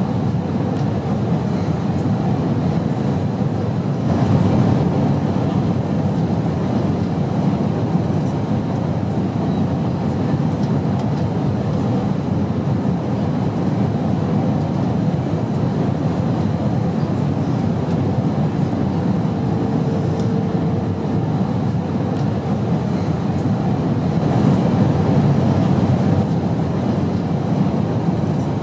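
Steady airplane noise: a constant low rumble, swelling slightly a few seconds in and again near the end.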